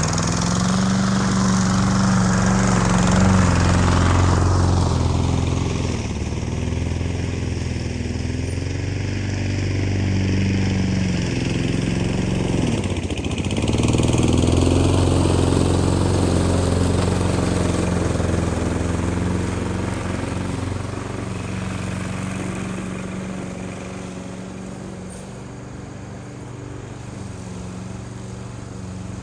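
Small petrol engine running steadily, its speed dipping briefly and picking up again about halfway through, then fading somewhat near the end.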